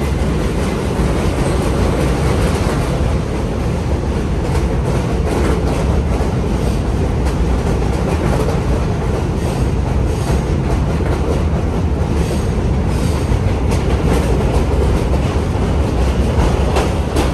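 A work train moving a set of new R211A subway cars past at close range: a steady rumble of steel wheels on rail, with repeated clickety-clack as the wheels cross the rail joints.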